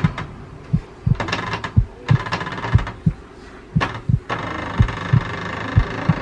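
Heartbeat sound effect: low thuds in lub-dub pairs, about one pair a second, with a few light clicks. A steady hum comes in about four seconds in.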